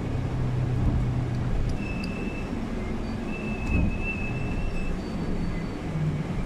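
City bus driving, heard from inside the cabin: a steady low rumble with thin, high squeals that come and go.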